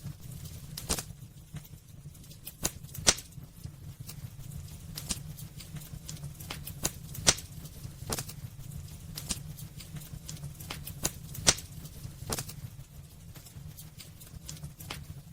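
Wood burning in a fireplace, crackling with irregular sharp pops, the loudest about three, seven and eleven seconds in, over a steady low rumble.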